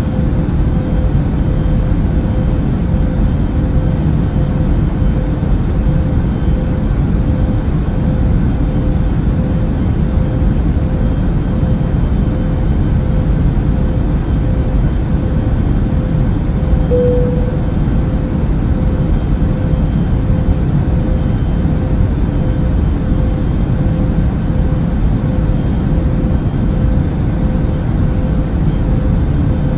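Airbus A380 cabin noise in cruise flight: a steady, deep rumble of engine and airflow with a faint steady hum above it. A brief tone sounds once just past the middle.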